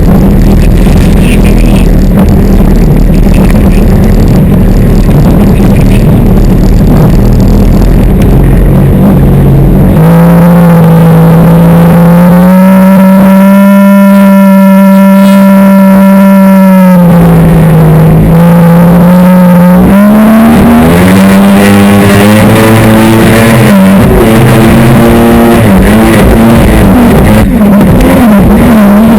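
Jet ski engine running hard and very loud. From about a third of the way in, its whine holds steady, then drops and rises unevenly as the throttle changes.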